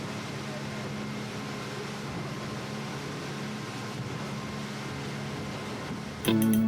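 Steady low mechanical hum with an even hiss. Music comes in loudly near the end.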